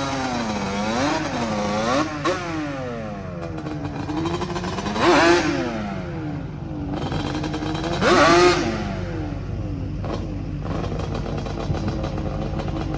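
Yamaha Banshee's two-stroke twin engine revving hard and repeatedly during a burnout, its pitch sweeping up and down with each throttle blip. The two highest, loudest revs come about five and eight seconds in.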